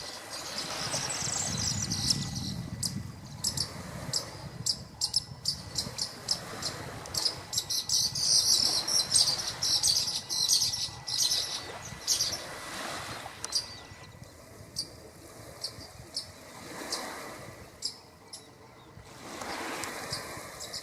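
Rapid, high-pitched chirping of many small birds, densest through the first dozen seconds and thinning out after.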